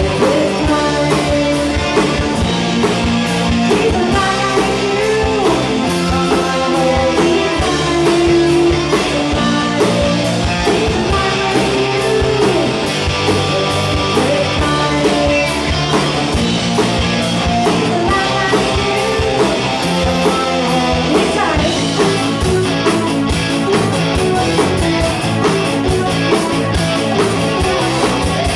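Rock band playing, with electric guitar prominent. About three-quarters of the way through, the band's sound shifts to steady, evenly repeating cymbal strokes.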